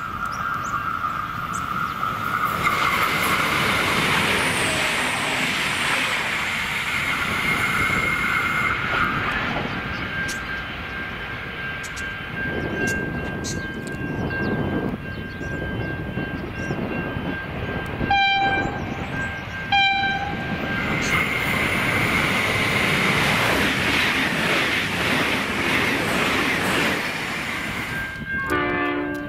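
V/Line diesel passenger trains running through a station at speed. The running and rail noise swells twice. Partway through come two short horn toots about a second and a half apart, and another horn note starts at the very end.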